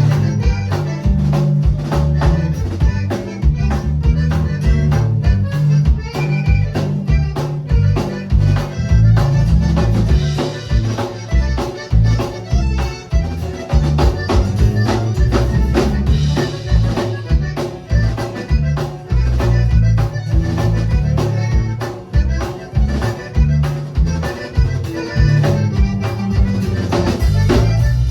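Accordion playing lively Latin band music over drums and a moving low bass line, with a steady beat.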